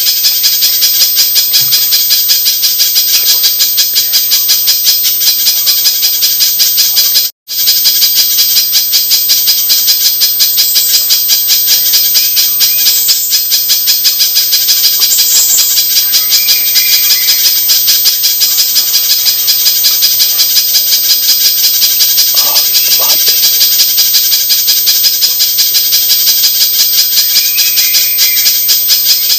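Recorded calls of a pijantung (spiderhunter), played as a bird-trapping lure: a fast, unbroken, high-pitched chattering of sharp chips repeated many times a second. The sound cuts out for a moment about seven seconds in.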